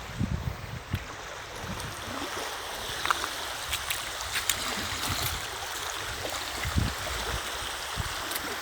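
Water lapping and trickling among shoreline rocks: a steady splashing wash scattered with small crackles and drips. A few low thumps come in near the start and again about two-thirds through.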